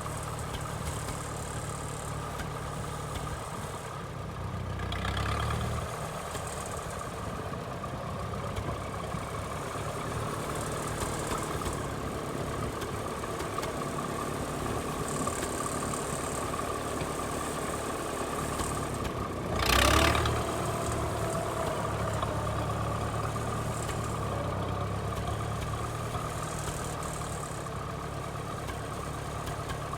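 Minneapolis Moline tractor's LP-gas 403 cubic-inch engine idling steadily, swelling slightly about five seconds in. A short loud noise breaks in about two-thirds of the way through.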